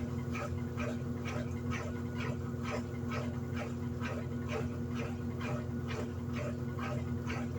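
Electrolux LED14 top-loading washing machine running with a steady motor hum and a rhythmic squeak about twice a second.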